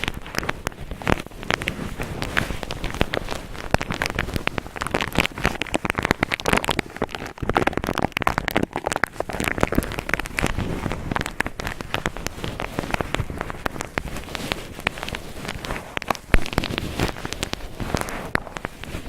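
Cotton balls rubbed and squeezed roughly against the microphone, a dense crackling rustle made of many small clicks.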